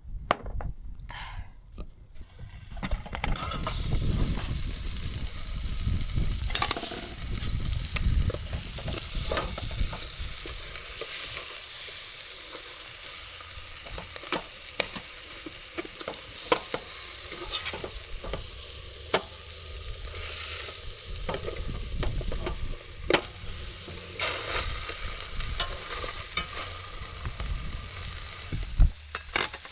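Chicken frying in a hot pan: a steady sizzle that starts a couple of seconds in, dotted with frequent sharp clicks and knocks.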